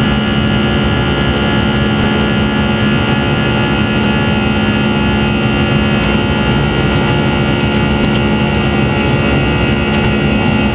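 Steady drone of an Airbus airliner's jet engines in flight, heard inside the passenger cabin: an even roar with several steady tones in it.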